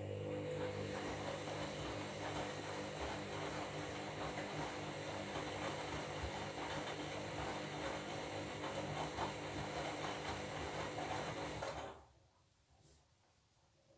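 Washing machine drum turning a load of bed linen in the wash: a steady motor hum under a grainy churning rush, stopping abruptly near the end.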